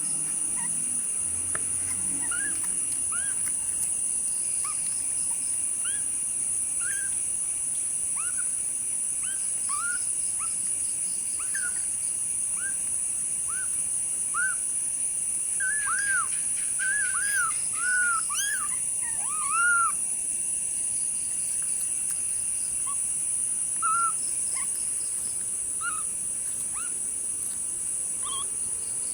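Kittens mewing: short, high calls that rise and fall, coming every second or so and crowding together in a loud cluster about halfway through, over a steady high-pitched hiss.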